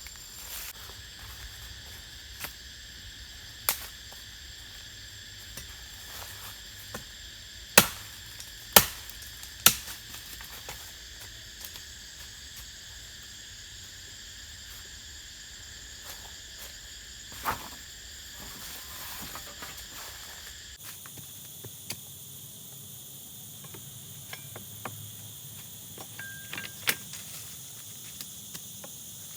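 Steady high-pitched chorus of insects, with scattered sharp knocks; the three loudest come about a second apart a third of the way in. Near the two-thirds mark the background changes abruptly.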